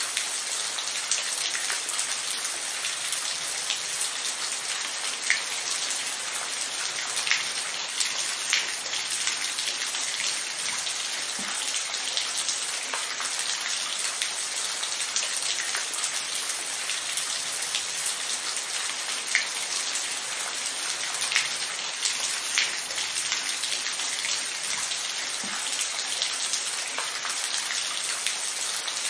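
Steady rain falling, an even hiss with scattered louder drips and drop strikes on a surface.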